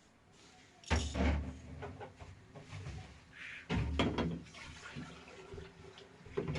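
Two heavy thumps, about a second in and just under four seconds in, with lighter knocks and clatter between them.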